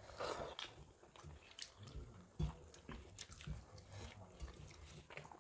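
Soft, close-miked eating sounds: chewing and wet mouth noises as rice and fish curry are eaten by hand, with fingers squishing food on steel plates. Irregular small clicks and smacks, one sharper smack about two and a half seconds in.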